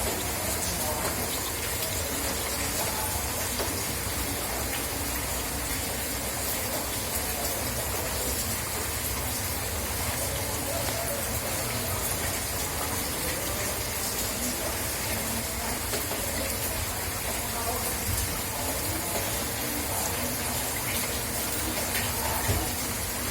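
Steady rain falling, with scattered drip and splash clicks.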